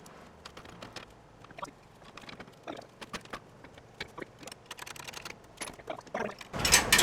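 Scattered metallic clicks and knocks of lifting hardware being handled, turning into loud jangling rattle of chain and shackles near the end.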